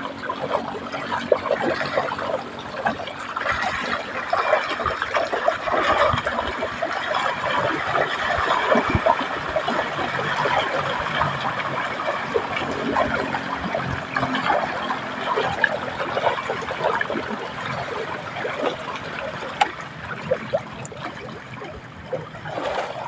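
Water splashing and trickling close to the microphone: a steady, irregular churning of many small splashes.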